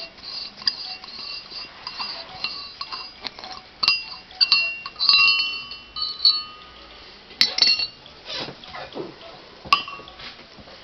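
Steel parts and tools clinking together as they are handled, several sharp clinks each followed by a brief metallic ring, the busiest stretch about halfway through.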